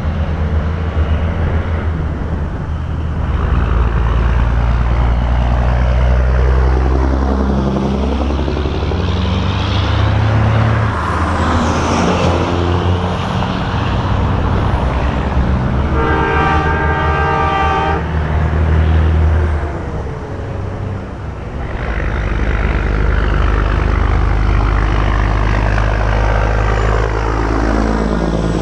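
Semi trucks in a convoy driving past one after another, heavy diesel engine drone and tyre noise swelling and falling as each goes by. An air horn sounds one steady blast of about two and a half seconds roughly halfway through.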